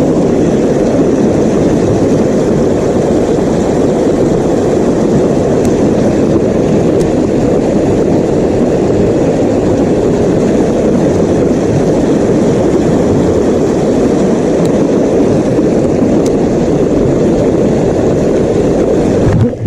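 A motor running steadily at constant speed, a loud even drone that cuts off suddenly near the end.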